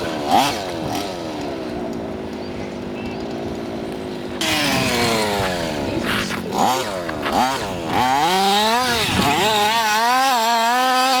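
The 23cc Zenoah G230RC two-stroke engine of an FG Marder RC car revving up and down as the car drives, its pitch repeatedly rising and falling. It gets louder about four seconds in, and near the end it holds a high, wavering pitch at speed.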